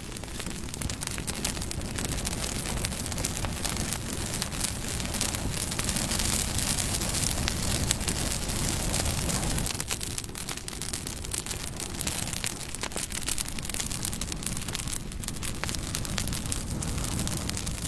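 Campfire burning: a steady hiss of flames with frequent sharp crackles and pops.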